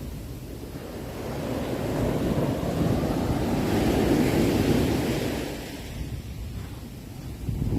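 Sea waves breaking and washing on the shore: one wave's rush swells to a peak about halfway through and draws back, and the next begins to build near the end.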